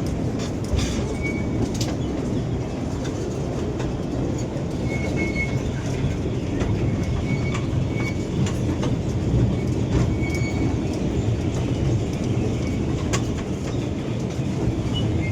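Small park ride-on train running along its track: a steady rumble with scattered clicks of the wheels over the rails, and a few brief faint high squeaks.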